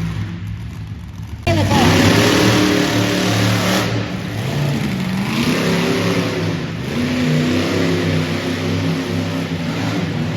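Monster truck engine idling, then revved hard about a second and a half in, its pitch climbing, dropping and climbing again as the throttle is worked.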